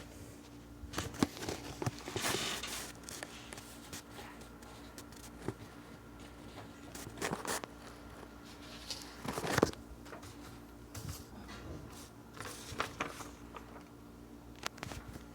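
Arno air circulator fan running with a steady motor hum, broken by irregular clicks, rattles and scraping noises. These are the abnormal noise the fan is making.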